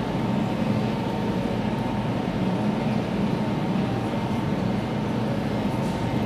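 Steady hum and faint whine of a train standing at the platform, with the echoing background noise of a large station hall under a glass roof.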